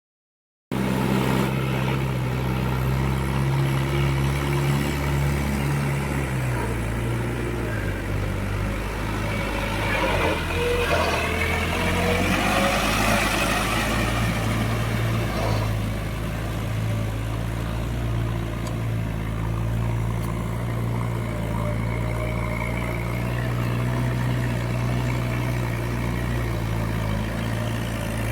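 Tractor diesel engine running steadily, its pitch shifting down a step about six seconds in and changing again a few seconds later. A wavering higher sound rides over it for a few seconds midway.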